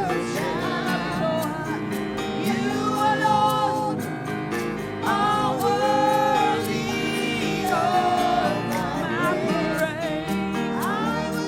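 Live gospel worship music: a worship team singing held, gliding sung lines over steady band accompaniment with a regular beat.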